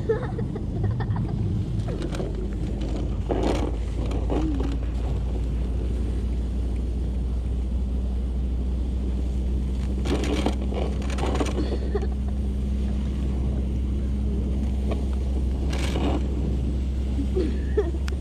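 Steady low drone of a pickup truck driving slowly through snow while towing a sled, with a few brief scraping, hissing bursts of snow.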